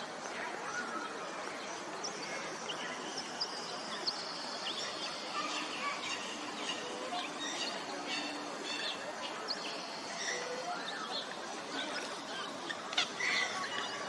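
Birdsong outdoors: many short chirps and whistles from small birds over a steady background hiss, a few louder chirps about a second before the end.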